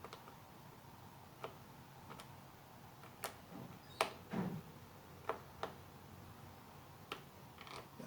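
Irregular light clicks and taps of small parts and tools being handled while an electric heater fan is taken apart for cleaning, about eight in all, the loudest about four seconds in with a short duller knock right after it.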